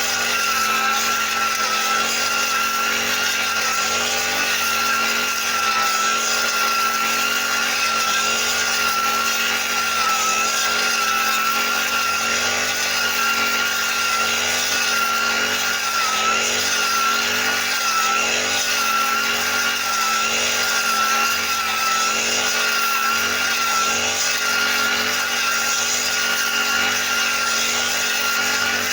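Brush cutter's small engine running steadily at high speed, its pitch wavering only slightly.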